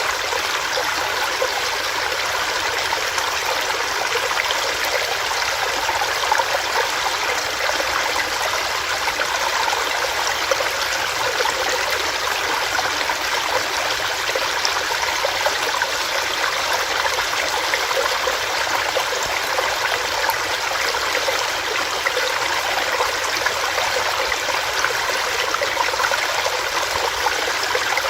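Small stream running and splashing over rocks, a steady rushing babble with fine trickling detail.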